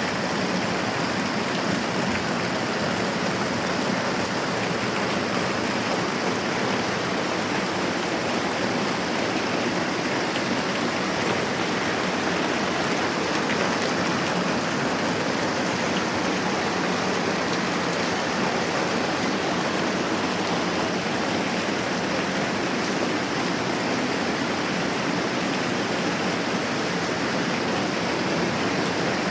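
Moderate rain falling steadily: an even, unbroken hiss.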